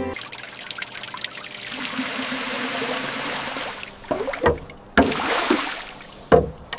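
Water pouring and trickling, with several sudden splashes or knocks in the second half.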